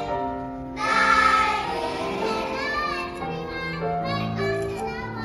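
Choir singing held, sustained notes, with a brief lull and then a loud new phrase coming in about a second in.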